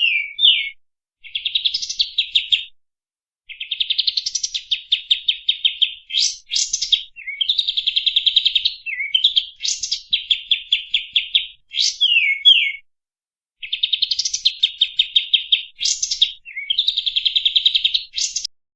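A songbird singing a long, vigorous run of rapid trilled phrases, with quick downward sweeping notes between them. It pauses briefly three times and stops just before the end.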